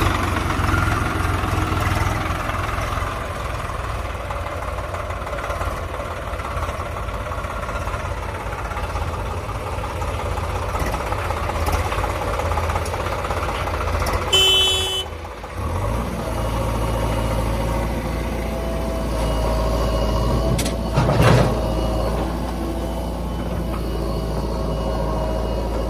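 Tractor engine running steadily with a low rumble. A little past halfway there is a short high-pitched tone, and some seconds later a single sharp knock.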